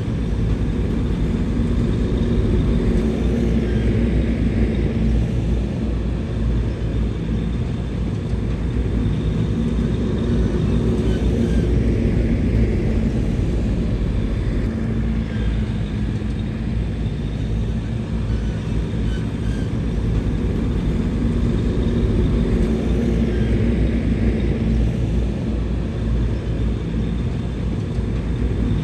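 Heavy diesel engine of a bulldozer running steadily under load, a continuous low rumble that swells and eases gently every several seconds.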